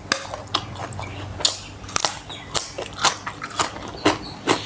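Close-up chewing and crunching of food in the mouth, with crisp crunches coming evenly about twice a second.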